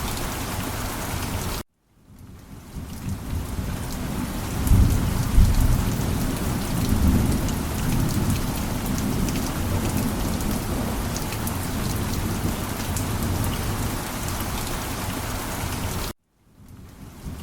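Steady heavy rain falling, with a low rumble of thunder that swells from about four seconds in and rolls on for a few seconds. Twice the sound cuts out abruptly to silence and fades back in: once near the start and once near the end.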